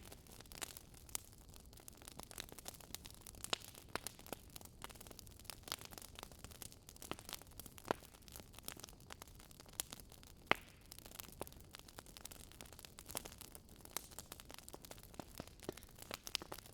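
Faint crackling of a burning wood fire: irregular sharp pops and snaps, a few a second, over a soft hiss.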